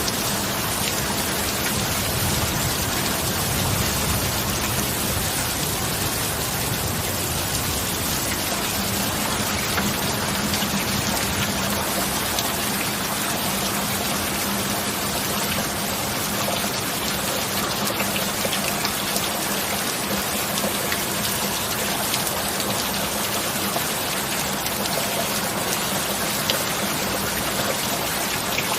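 Steady rain falling, a continuous even hiss, with a faint low steady hum underneath.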